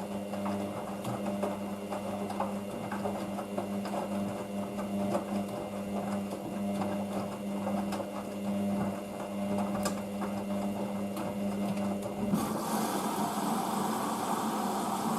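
Hoover DYN9144D3X washing machine at work: a steady motor hum with frequent light clicks. About twelve seconds in it changes abruptly to a rushing noise.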